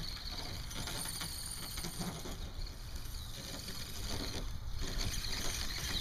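Small electric motor of a radio-controlled truck whining, its pitch wavering as it drives, over a steady low rumble.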